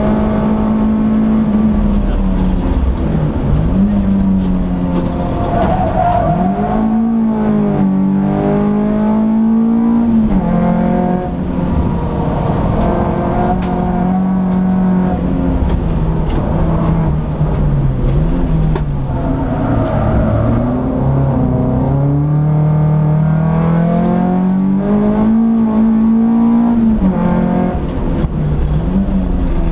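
Peugeot 206 S16's 2.0-litre four-cylinder engine heard from inside the cabin, driven hard on a circuit: the engine note climbs through the revs and falls sharply at gear changes and braking, several times over.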